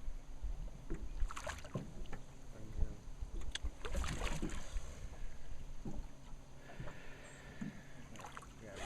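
Scattered knocks and handling noises in a small fishing boat, with faint voices at times.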